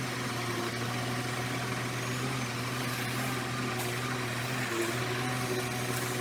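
Diesel engine of heavy earthmoving machinery running steadily at an even speed, a constant low hum with no revving.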